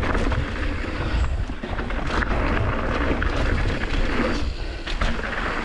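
Mountain bike riding fast down a dirt trail: continuous tyre and wind noise with a constant clatter of knocks and rattles from the bike over rough ground.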